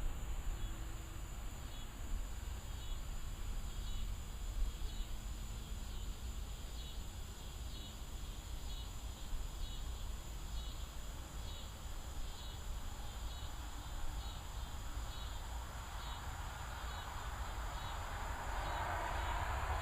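Evening insects chirping in a slow, even pulse about once a second, over a steady high-pitched insect hum and a low rumble. A rushing noise swells over the last couple of seconds.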